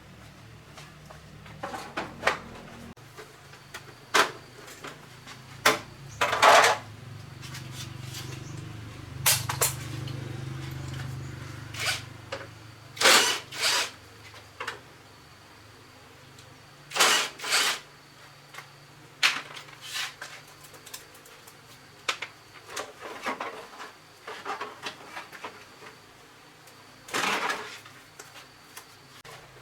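Metal tools and motorbike parts clinking and knocking irregularly as the bike is taken apart, with a few louder clanks among lighter clicks and rattles.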